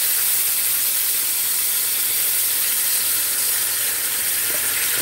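Cooked pinto beans sizzling in hot bacon grease in a skillet: a steady hiss with steam rising.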